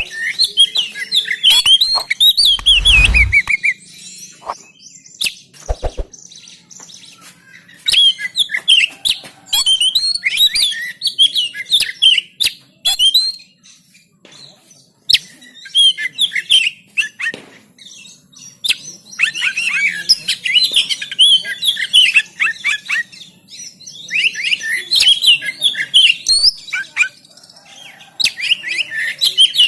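Oriental magpie-robin singing in bursts of fast, varied whistles and chattering notes, with short pauses between the bursts. A brief low rumble sounds about three seconds in.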